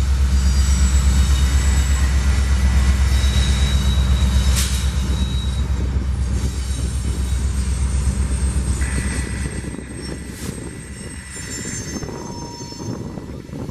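Freight train rolling past, its cars making a steady low rumble with a fast rhythmic pulse, and wheel flanges squealing in several high, steady tones. The rumble drops off about ten seconds in, while fainter squeals carry on.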